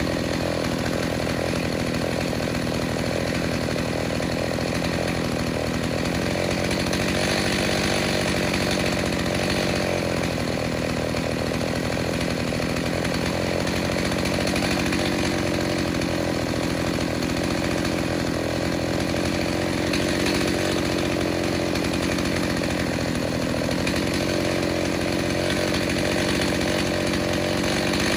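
Rebuilt Stihl 029 two-stroke chainsaw, on its first tank since the rebuild, running steadily at high revs under load, cutting wood without letting up.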